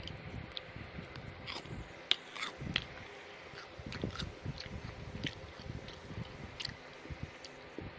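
Close-miked eating: a person chewing and biting food, with frequent small sharp clicks and crunches over soft chewing thumps.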